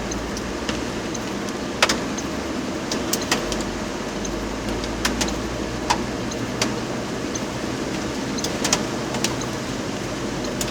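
A car in heavy rain: a steady wash of noise with a low hum underneath, broken by about a dozen irregular sharp ticks of raindrops striking the car.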